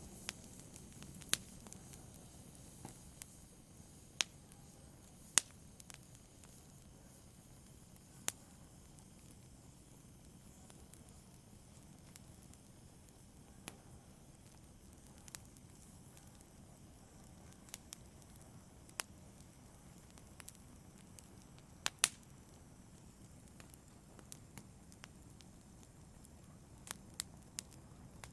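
Wood fire burning in a fireplace: a quiet steady hiss broken by sharp crackles and pops at irregular moments, a few of them much louder than the rest.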